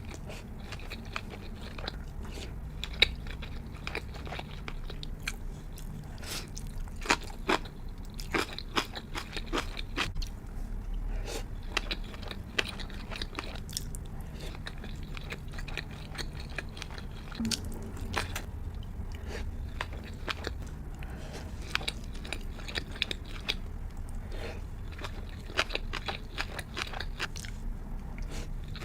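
Close-miked eating sounds of a person biting and chewing sushi, with many short, sharp mouth clicks throughout.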